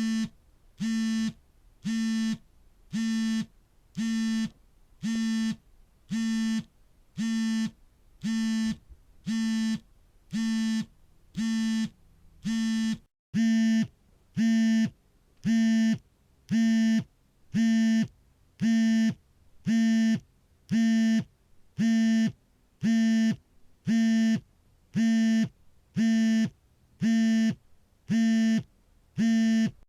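Smartphone vibrating for an incoming call: a steady buzz in regular pulses of about half a second, roughly one a second. Just after a brief gap about 13 seconds in, the pulses come back a little louder.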